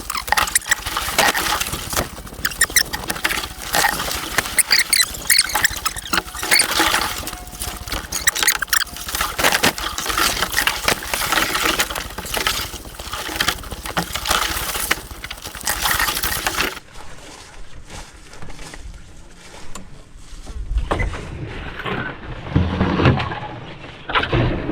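Footsteps pushing through dense brush on a forest trail, with twigs snapping and leaves and branches rustling and scraping close by. The crackling stops about two-thirds of the way through, leaving a few low thuds near the end.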